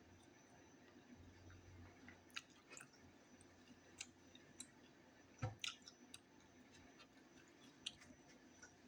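Faint close-up chewing of a soft taco: scattered wet, squishy mouth clicks, the loudest a little past halfway.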